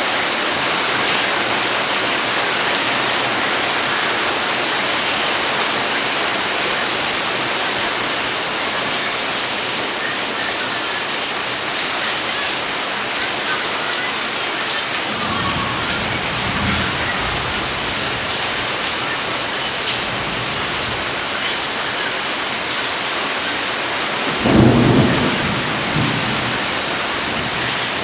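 Heavy rain falling steadily in a continuous hiss. Thunder rumbles low about halfway through, and a louder rumble of thunder comes near the end.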